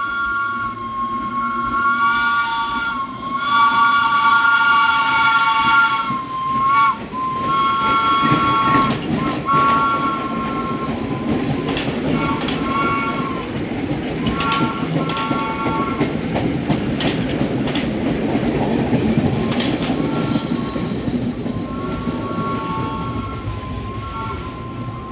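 A subway train's horn sounding a chord in repeated long and short blasts, over the rumble and rattle of the train's wheels on the track as it passes.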